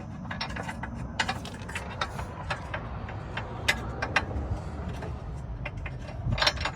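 Irregular metallic clicks and clinks of hand tools working on the car's subframe bolts, with a ratchet wrench clicking, over a steady low hum.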